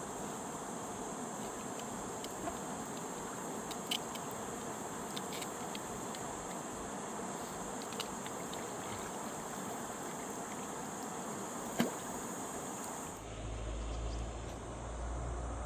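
Steady rushing of a fast mountain river, with a few sharp clicks. About thirteen seconds in the sound changes abruptly and a deep low rumble takes over.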